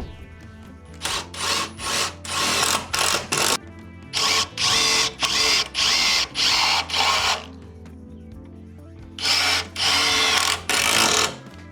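Handheld power drill or driver run in short trigger bursts, about a dozen in four clusters, as bolts are driven out while the damaged front-end parts are taken off. Faint background music runs underneath.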